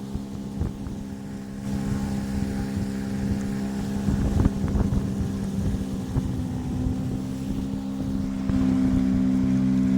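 Motorboat engine running steadily under way, with wind on the microphone and water noise. It gets louder about two seconds in and again near the end, when its pitch steps up as it speeds up.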